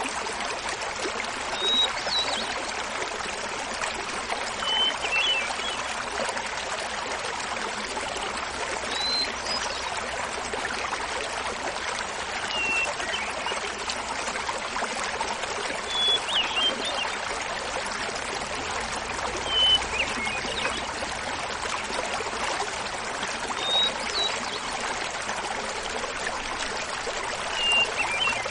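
Small mountain waterfall running steadily, with a hermit thrush singing short phrases about every three to four seconds. Each phrase opens on a held note and is pitched differently from the one before.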